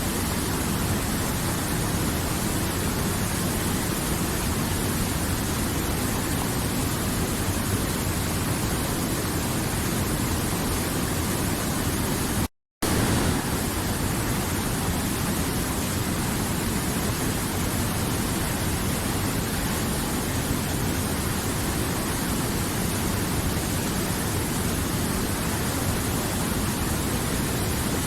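River water flowing, a steady even rush with no change in strength. The sound cuts out completely for a split second about halfway through.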